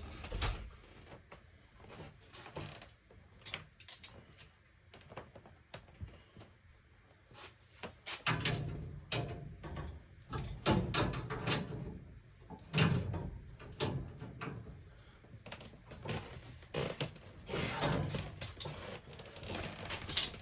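Irregular knocks, clicks and clunks of handling and moving about, coming more often in the second half.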